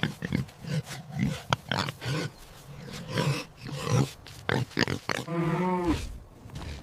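Pigs grunting in a run of short, irregular grunts, with one longer, drawn-out pitched call about five seconds in.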